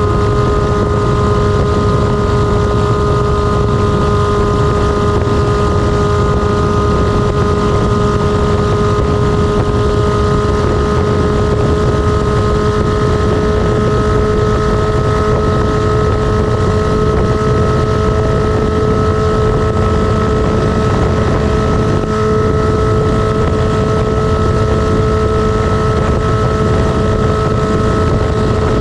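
Kawasaki ZR-7's inline-four engine running loud with no exhaust muffler, holding a steady pitch, with wind noise on the microphone.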